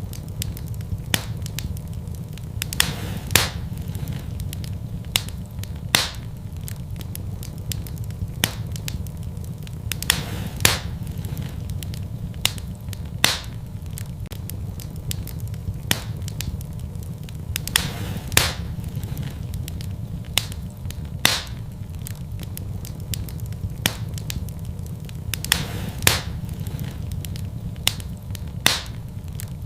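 Wood fire burning in a fireplace: sharp crackles and pops at irregular moments, roughly every second or two, some with a brief hiss, over a steady low rumble.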